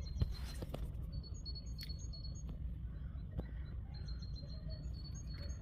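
Small birds chirping in rapid series of short, high notes, over a steady low rumble.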